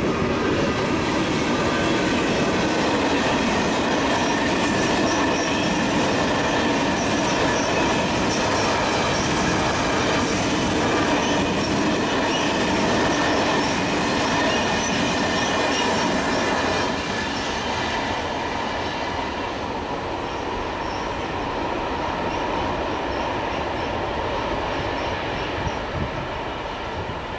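Freight train of covered paper wagons rolling through a level crossing: a steady loud rolling of wheels on rail, with wheel squeal ringing over it. It gets quieter about two-thirds of the way through as the last wagons pass, then fades away.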